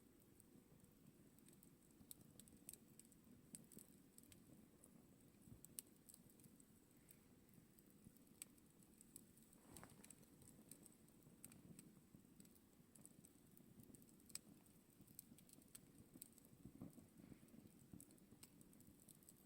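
Faint campfire burning: a low, steady rush of flame with scattered small crackles and pops from the wood.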